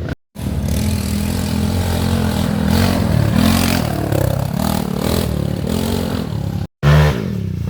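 Dirt bike engines running and revving up and down unevenly. The sound drops out abruptly twice, just after the start and about a second before the end, and after the second break an engine revs and then falls back.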